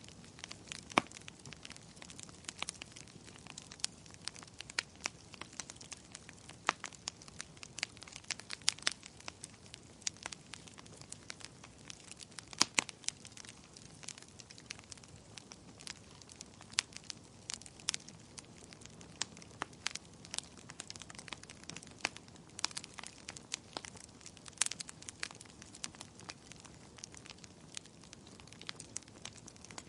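Wood fire crackling in a fireplace: irregular sharp pops and snaps, some much louder than others, over a soft steady hiss.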